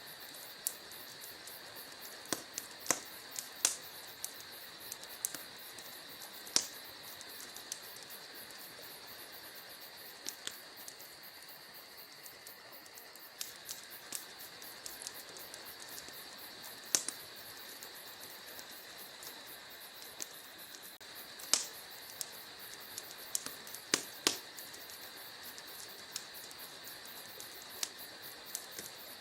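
Wood fire burning in a fireplace, with scattered sharp crackles and pops, the loudest a few seconds in and at about 17, 21 and 24 seconds. A steady high trilling runs underneath.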